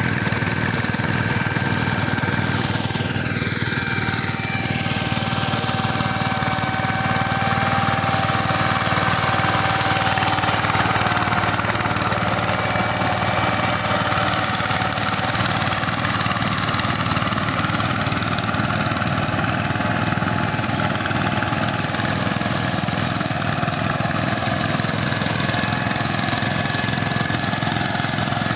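Tractor's diesel engine running steadily under work in the field, a continuous chugging drone with a faint falling whistle-like glide about three seconds in.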